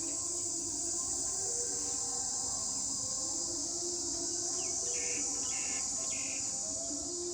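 Steady, high-pitched chorus of insects droning without a break, with a few short bird calls about two-thirds of the way through.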